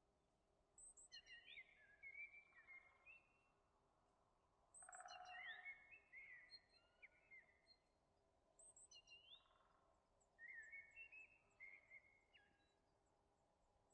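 Faint birdsong: a bird singing several short phrases of high chirps and whistled glides.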